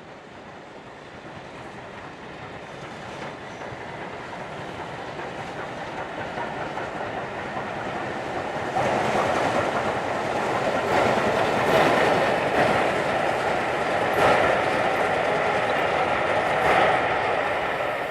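Train approaching, growing steadily louder, then passing close with its wheels clicking over the rail joints.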